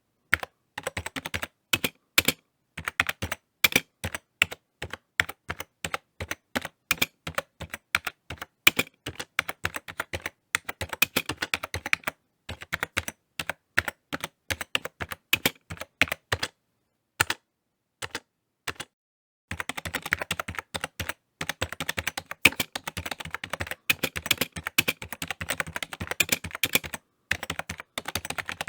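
Typing on a computer keyboard: quick runs of key clicks at several strokes a second, broken by brief pauses, with faster, denser typing in the last third.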